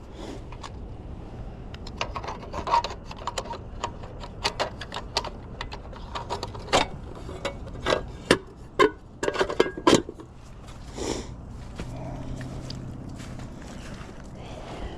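Irregular knocks, clicks and scraping of handling and moving about, thickest in the middle, followed by a low steady hum starting about twelve seconds in.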